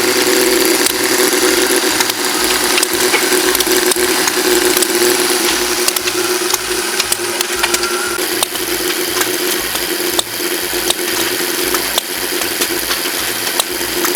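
Antique hit-and-miss stationary gas engines running, with a busy mechanical clicking and clatter over a steady drone.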